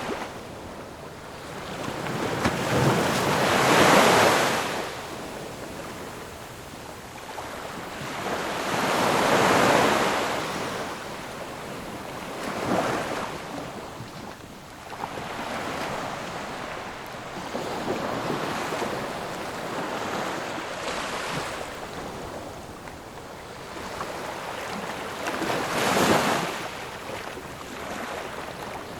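Ocean waves breaking on a shore, surging in and washing back. Several louder breakers rise and fade, about 4, 10, 13 and 26 seconds in, over a steady wash of surf.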